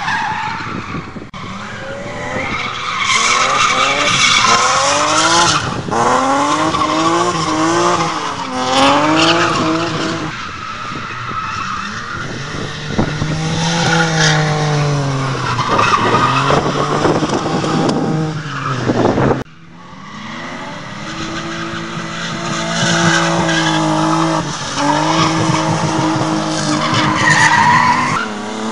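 Drift cars running hard: engines revving up and falling back again and again while tyres squeal through long slides. The sound drops off suddenly about two-thirds of the way in, then builds up again.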